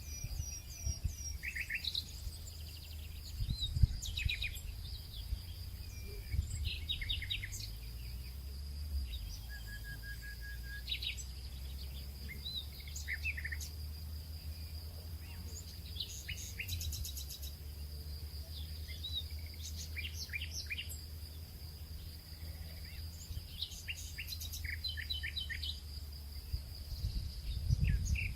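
Nature ambience of songbirds chirping and trilling in short repeated calls over a steady high insect drone, with a low rumble underneath.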